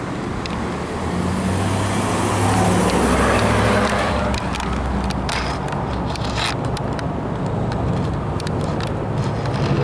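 Road traffic: a passing car swells and fades over a steady low rumble, with two short knocks about five and six and a half seconds in.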